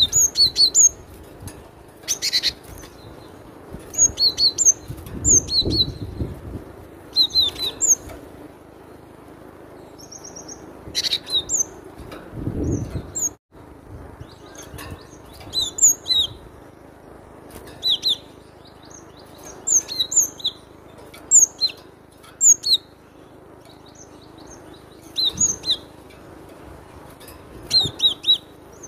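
Cinereous tit (gelatik batu) singing: short phrases of sharp, high, clipped notes, repeated every second or two with brief pauses between.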